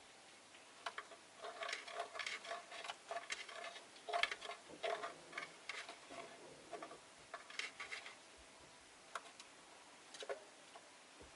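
Rosy-faced lovebirds moving about in their cage: a run of light clicks and taps, bunched closely together in the first half and sparser towards the end.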